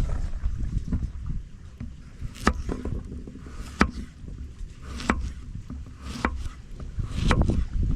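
A series of sharp knocks, about one every second and a quarter, over a steady low rumble, with the knocks coming faster near the end.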